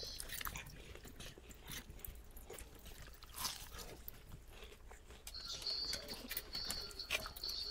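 A person eating noodles, with quiet chewing and scattered small clicks. From about five seconds in, a faint high-pitched tone comes and goes.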